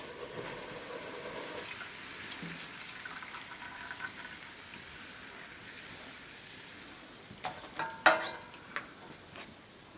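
Food sizzling with a steady hiss as it cooks. From about seven and a half seconds in comes a short run of clinks and knocks, the loudest a sharp ringing clink about eight seconds in.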